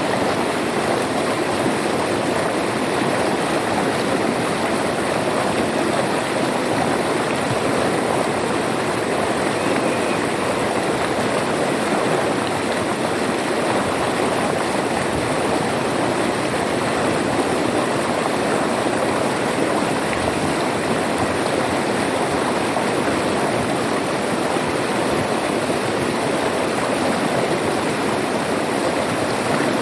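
River water flowing and rushing steadily, an unbroken even splash and gurgle.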